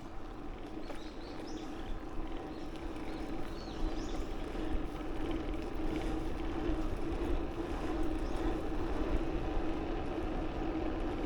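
Steady noise of a bicycle ride: wind over the microphone and tyre hum on the path, with a few faint high chirps in the first few seconds.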